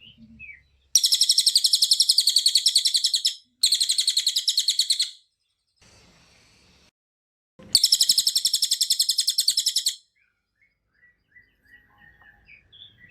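Cililin songbird singing 'tembakan rapat' (tight-fired) song: three loud bursts of very rapid, dense, high-pitched repeated notes, each lasting about two seconds. Fainter scattered chirps follow near the end.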